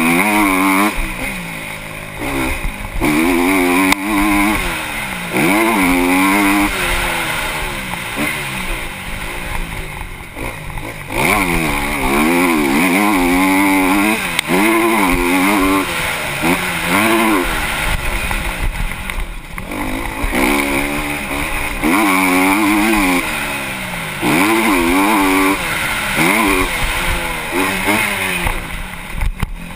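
Honda CRF250R motocross bike's single-cylinder four-stroke engine revving hard and dropping back again and again through acceleration, gear changes and braking on a dirt track, picked up by the rider's helmet camera.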